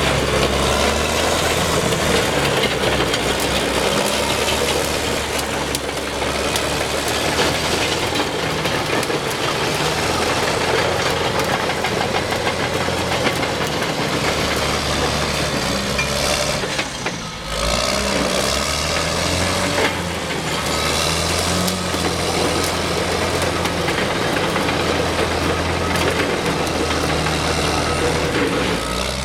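Diesel engine of a Caterpillar D6R bulldozer running steadily, dipping briefly a little past halfway.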